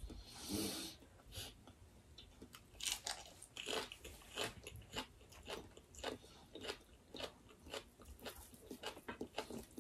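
Close-miked eating sounds of two people chewing mouthfuls of rice and curry taken by hand: soft, irregular chewing clicks and lip smacks, with a short louder burst of noise about half a second in.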